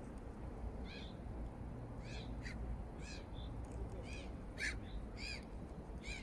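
A bird calling over and over with short calls, roughly one a second, over a steady low background rumble.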